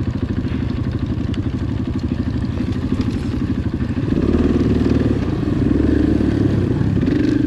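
Dirt bike engine running on a trail ride, its firing pulses steady, then louder as the throttle opens about four seconds in.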